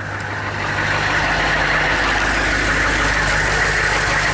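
The bus's 6.2 L Chevrolet V8 diesel idling steadily, growing louder over the first second as the sound opens up outside the bus.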